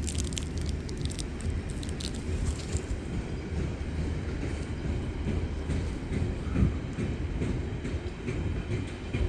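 A passing train's wheels running steadily over the rails, with a few sharp clicks in the first couple of seconds. One of its wheels is flat.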